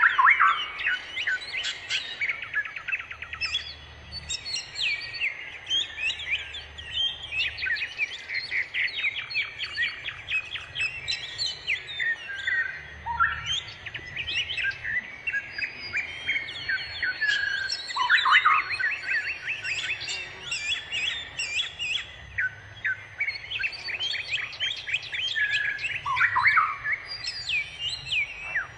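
Bird song: a busy, unbroken run of rapid chirps, quick trills and short whistled notes, changing pattern every second or so.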